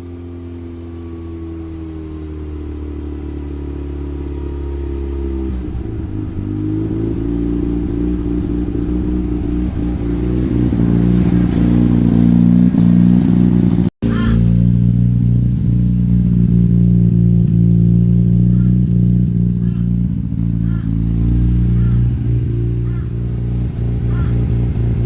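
Mazda RX-8's twin-rotor Renesis rotary engine running as the car is driven. Its pitch falls over the first few seconds, then it gets louder and holds steady, with a brief break about halfway through.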